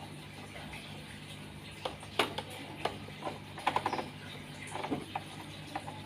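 Pet bird feeding in its cage: scattered light taps and clicks of pecking and hopping, with a quick run of ticks about halfway.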